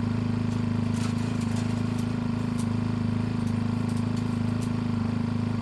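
Polaris Ranger UTV engine running steadily with an even low hum, with scattered light clicks and rattles.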